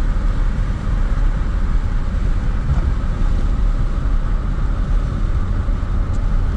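Chevy S10's 4.3 Vortec V6 on Holley Sniper fuel injection, running steadily as the truck drives, with road noise, heard from inside the cab.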